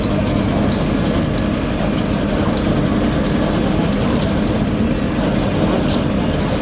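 Heavy diesel road-paving machinery running steadily, a constant engine hum with no change in speed.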